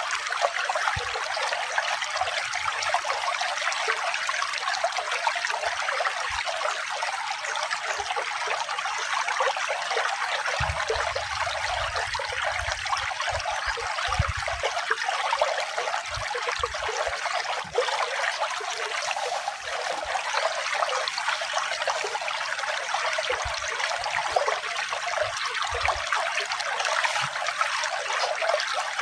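Running water trickling and splashing steadily, a continuous even rush without any pauses.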